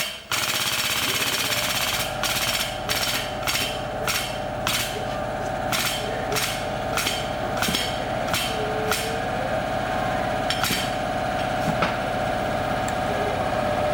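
Sharp metal knocks, about two a second and thinning out toward the end, from dent-pulling work on a car's steel body panel. A steady machine hum runs beneath them.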